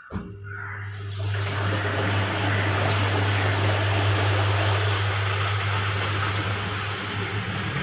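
Top-load washing machine running, with a steady motor hum under a rushing, water-like noise. It starts suddenly and builds over the first second.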